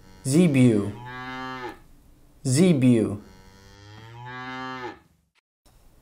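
Zebu cattle mooing: a short low moo, then a longer one of about a second and a half.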